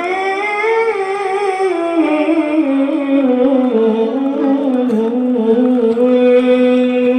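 A man's high voice in Quran recitation (tilawah), drawing out the closing 'Sadaqallahul azim' in one long ornamented melismatic line that rises and falls in pitch. Near the end it settles on a long held note.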